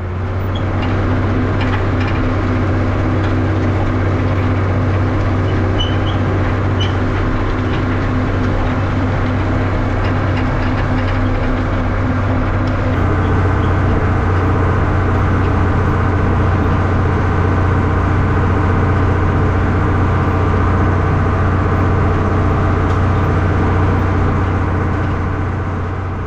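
An engine running steadily, with a strong low hum; its tone shifts about halfway through. It fades in at the start and out at the end.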